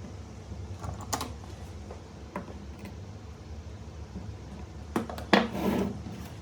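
A few light clicks and a short clatter of small hard objects being handled, the loudest about five seconds in, over a steady low hum.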